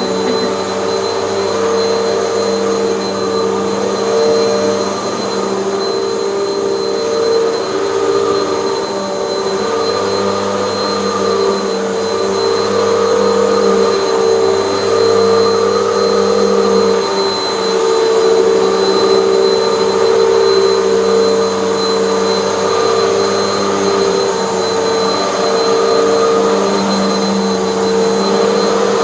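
Hoover bagless upright vacuum cleaner running steadily on carpet: a loud motor hum with a thin high whine above it, its pitch shifting slightly now and then.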